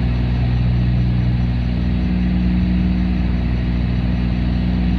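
Cessna 310's twin piston engines and propellers droning steadily in cruise, heard from inside the cabin.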